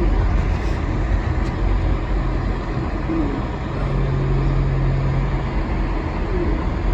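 Steady engine and road noise of a car driving on a snowy road, heard from inside the cabin, with a low hum that grows a little louder for about a second and a half in the middle.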